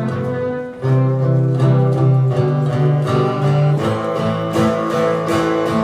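Country band playing an instrumental passage between verses, led by strummed acoustic guitar. The level drops briefly just under a second in, then the full band comes back in.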